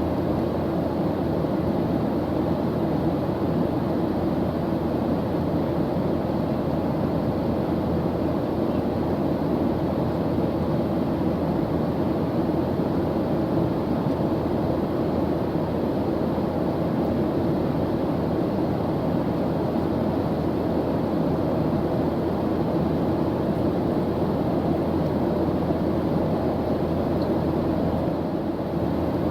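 Airplane engine drone in flight: a steady, even rumbling noise that holds without change, weighted to the low and lower-middle range.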